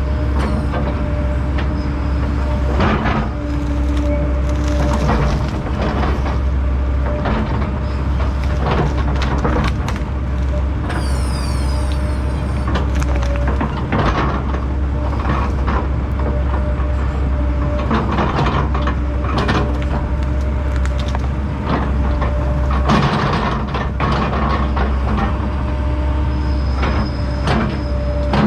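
Fecon Bullhog forestry mulcher on an ASV RT-120F track loader grinding through brush and wood, its diesel engine running steadily under the mulching head's hum. Frequent irregular cracks and splintering of wood break through all the way.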